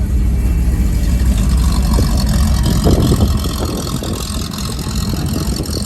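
A car engine running loudly close by, deep and steady, with a brief swell about three seconds in.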